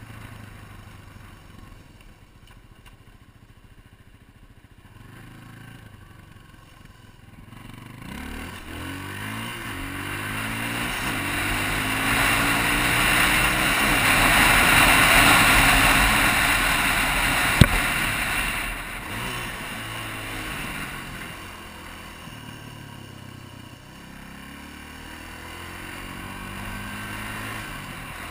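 Yamaha TT-R250's single-cylinder four-stroke engine running low, then revving up with rising pitch as the bike accelerates, with a loud rushing noise at its peak in the middle and a single sharp click. The engine then drops back and revs up again near the end.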